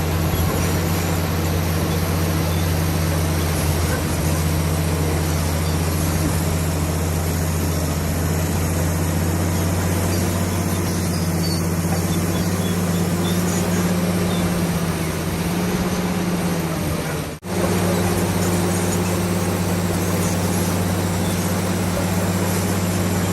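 Crawler bulldozer's diesel engine running steadily under a continuous low drone. The sound cuts out for an instant about two-thirds of the way through, then the same drone resumes.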